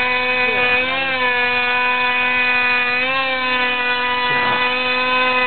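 DLE-30 single-cylinder two-stroke gasoline engine of a radio-controlled aerobatic plane, running steadily as it turns its wooden propeller, with small wobbles in pitch about a second and again about three seconds in.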